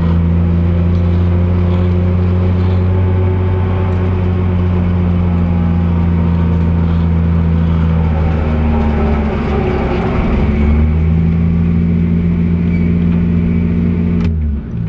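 Drift car's engine heard from inside the cabin, running steadily at low revs as the car rolls slowly. Its pitch shifts briefly about two-thirds of the way through, then settles again, and the sound drops away near the end.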